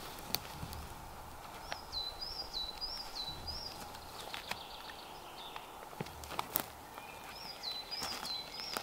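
A small songbird singing in a forest: two short runs of four quick repeated high notes, each note dropping in pitch, over a steady outdoor hiss. Light clicks and a few soft low thuds of movement on the forest floor are heard between them.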